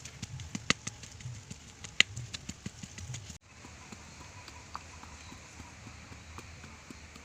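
A run of soft thumps and sharp clicks, like steps or handling of wood, then after an abrupt cut about three and a half seconds in, a faint steady hiss.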